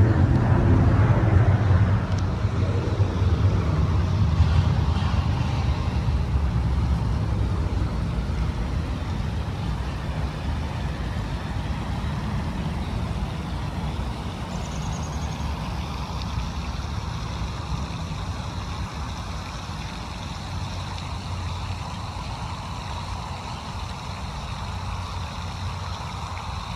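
Steady road traffic noise, a low rumble of passing cars and trucks, loudest at the start and fading gradually.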